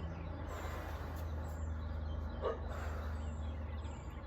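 A dog barks once, short and sharp, about halfway through, over a steady low hum.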